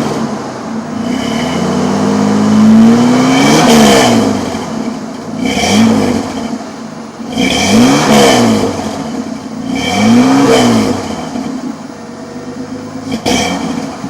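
Exhaust of a 1991 Ford F-150's 4.9-litre inline six through a Flowmaster muffler and Flowmaster catalytic converter, revved four times: one long climb, then three shorter blips, dropping back to idle between them. A sharp click sounds near the end.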